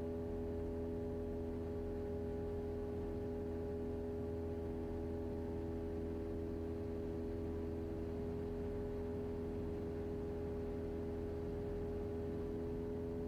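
Cessna 172's engine and propeller droning steadily at climb power, heard in the cabin as a low hum with a few steady tones over it.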